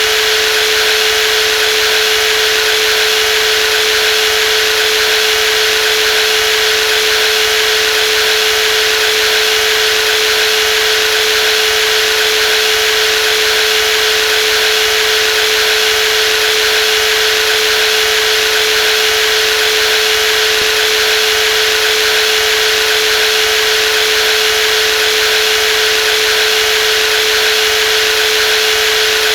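Brushless jigsaw running continuously at a constant speed, a steady motor whine over an even mechanical hiss with no change in pitch or load.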